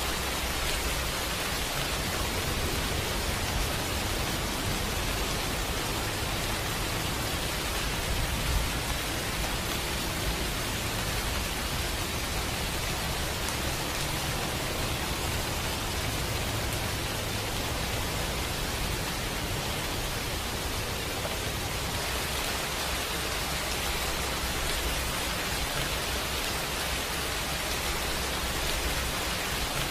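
Steady rain falling on the surface of a pond: an even hiss with a low rumble underneath.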